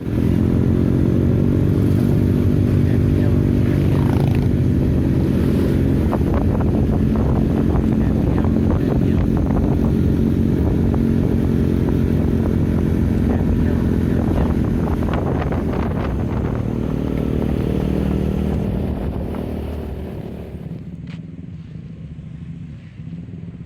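Motorcycle engine running at steady revs, loud and close, dying down near the end.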